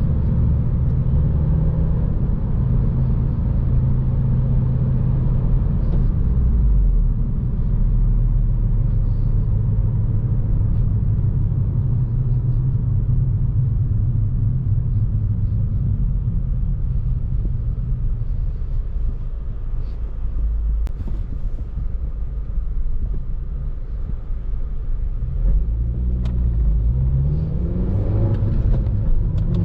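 2014 Honda Civic Si's 2.4-litre four-cylinder engine and tyre noise while driving, running at a steady pitch for most of the time, then rising in pitch near the end as the car accelerates.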